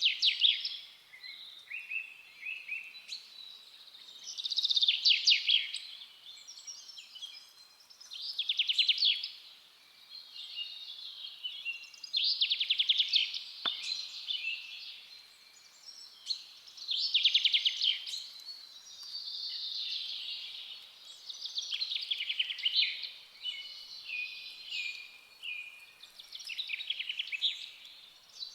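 Forest songbirds singing: one bird repeats a fast trilled phrase of about a second every four seconds or so, with softer twittering from other birds in between.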